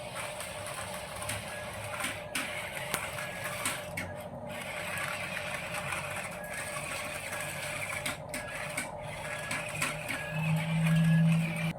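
Small electric motor of a remote-control toy truck whirring steadily, with a few short clicks. About ten seconds in, a louder low hum joins for roughly a second.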